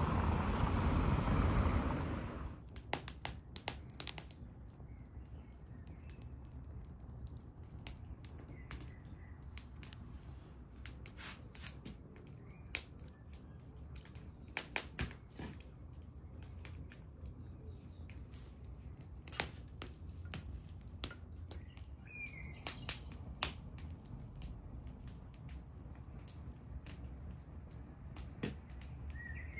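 Wood campfire crackling, with irregular sharp pops and snaps throughout. It opens with a couple of seconds of steady rushing noise, and a bird chirps briefly a few times.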